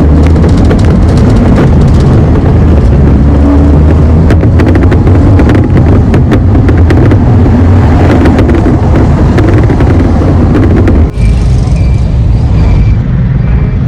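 Loud vehicle travel noise: a heavy low rumble with wind buffeting and crackling on the microphone. The rumble drops off sharply about 11 seconds in.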